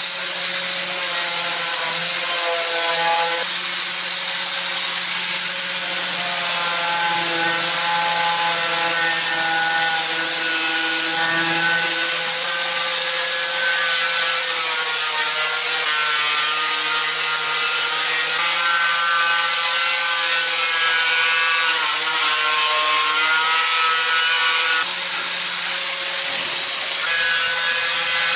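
A power tool running continuously in a workshop, a steady whine whose pitch shifts every few seconds as the work goes on.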